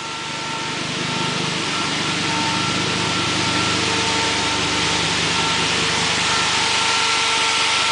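Chevy Colorado inline five-cylinder engine idling steadily on one of its first runs after being swapped in, with a steady high whine over it.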